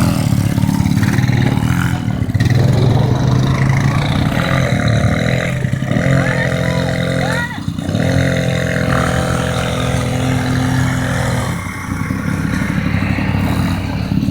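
ATV (quad bike) engines running, rising and falling in pitch as they are revved. From about four and a half to eleven seconds in, a second, higher engine tone runs alongside.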